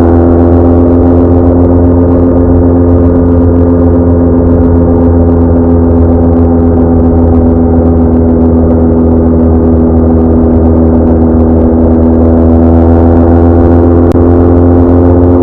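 BMW R1200R's flat-twin (boxer) engine running steadily at road speed, its pitch dipping slightly and then climbing again near the end as the throttle is eased and reopened.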